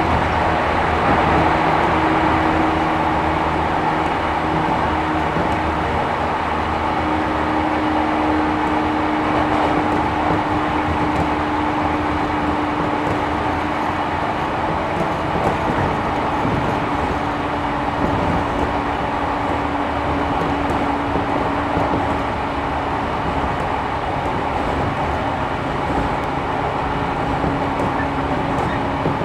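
Running sound inside a JR 113 series 1500-subseries resistor-controlled electric train, heard from inside the carriage. Wheels on rail give a steady rumble, with a steady tone over it as the train holds an even speed.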